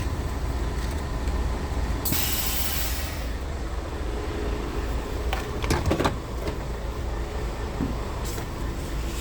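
Scania R tractor unit running with a steady deep engine rumble. About two seconds in, a sharp hiss of compressed air lasts about a second, typical of the truck's air brake system venting. A few knocks and clicks follow around five to six seconds in.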